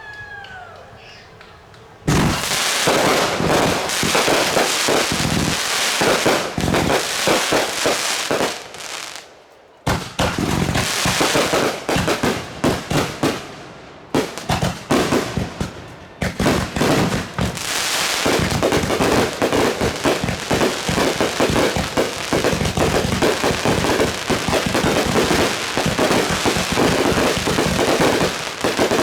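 Fireworks going off in rapid succession: a dense run of crackling pops and bangs that starts suddenly about two seconds in and carries on almost without a pause, with brief breaks near ten and fourteen seconds.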